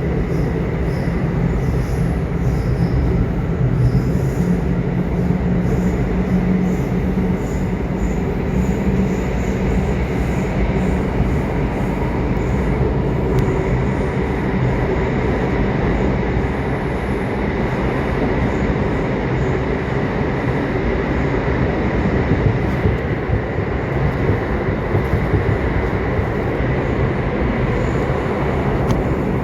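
Subway train running steadily: a continuous rumble of wheels and rails with a low hum and a thin, steady high whine.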